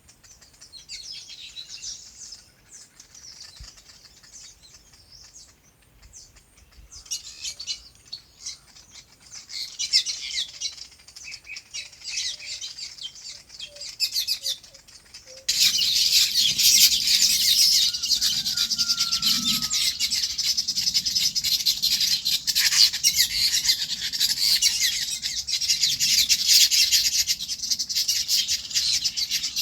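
Many small birds chirping together. The chirps are scattered at first, then about halfway through they suddenly become a much louder, denser chorus.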